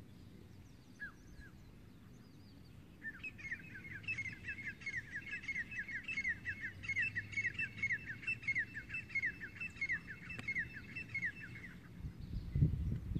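A bird singing: a few short downward-slurred notes, then from about three seconds in a rapid run of them repeated for roughly nine seconds. A low rumble of wind on the microphone swells near the end.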